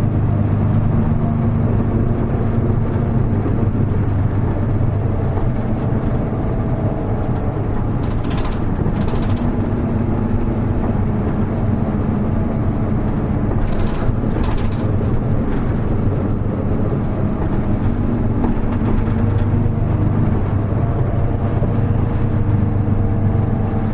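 Hino Rainbow HR (KL-HR1JNEE) city bus running on the road, heard from inside the cabin: a steady diesel engine drone that shifts slightly in pitch. Two pairs of short hisses come about eight and fourteen seconds in.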